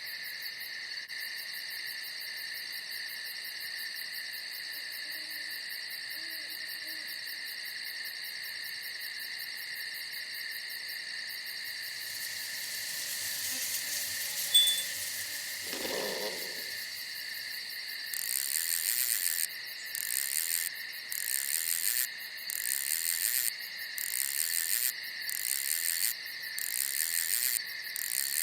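Night insect chorus of crickets and other insects: a steady high-pitched trilling throughout. From about two-thirds of the way in, a louder, higher chirping joins it in pulses about once a second. A brief, lower sound breaks in near the middle.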